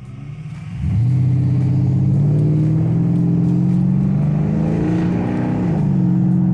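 Porsche Cayenne S with aftermarket exhaust pipes pulling away and accelerating. The engine note jumps up about a second in and climbs steadily in pitch, then drops briefly near the end as it shifts up.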